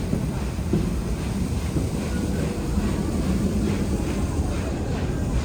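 Steam-hauled excursion train running along the track: a steady rumble of the coaches rolling on the rails, heard from aboard.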